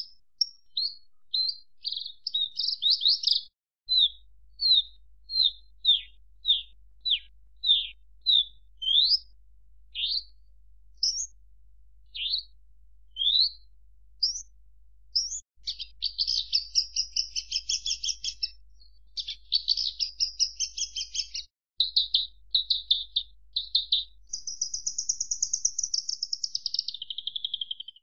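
Javan bush lark (branjangan) singing: a string of separate sharp chirps and down-slurred whistled notes, turning about halfway into fast, dense trills, and ending on a long high note that steps down in pitch.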